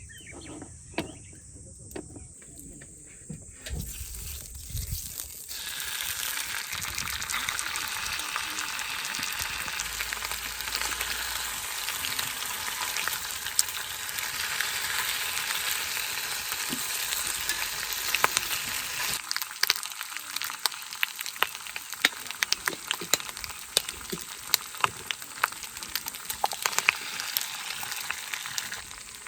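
Food sizzling in a frying pan over a campfire. A few clicks come first, then a steady hiss starts a few seconds in. In the second half the hiss thins and many sharp pops and spatters take over.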